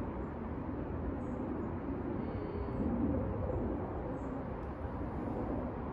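Outdoor ambience: birds calling over a steady low rumble of background noise.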